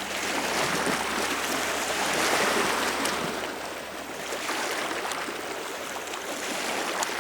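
Steady rush of running water, rising and falling gently in strength.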